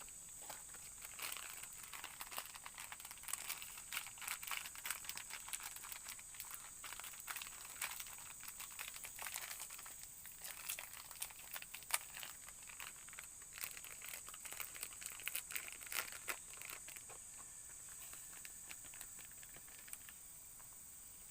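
Irregular crackling and rustling from something being handled or stepped on, over a steady high-pitched drone.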